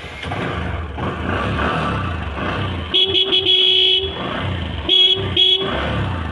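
Bajaj Discover 125's single-cylinder four-stroke engine running while the throttle is worked, to show how it sounds. A horn gives one long blast about three seconds in, then two short toots about a second later.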